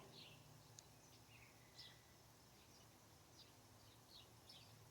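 Faint, scattered short chirps of small birds, several over a few seconds, above a quiet, steady low background hum.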